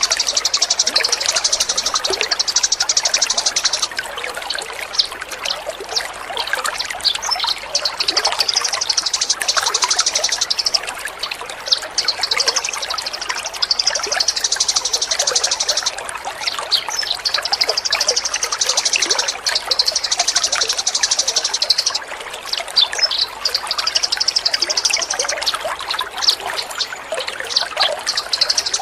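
Water trickling steadily, with a small songbird's very rapid, high trills repeated in runs of two to four seconds with short breaks between them.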